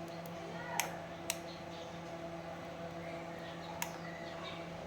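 Three sharp clicks or taps, about a second in, shortly after, and near the end, over a steady electrical hum.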